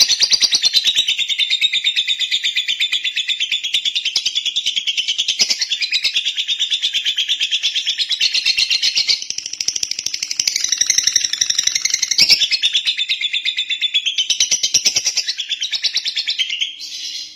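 Lovebird singing one long, unbroken, high-pitched chattering song of rapid trills, dipping briefly about halfway and cutting off near the end.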